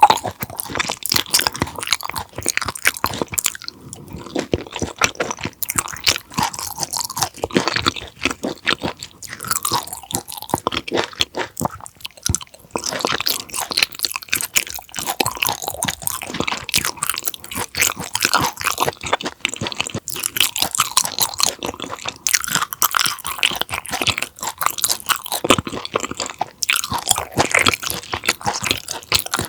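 Close-miked chewing of raw conger eel sashimi: a continuous run of small wet clicks and smacks from the mouth as the firm raw eel is chewed, with no pauses.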